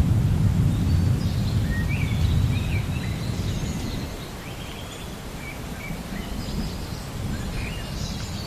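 Distant thunder rumbling low, fading away about halfway through, while small birds chirp and call throughout.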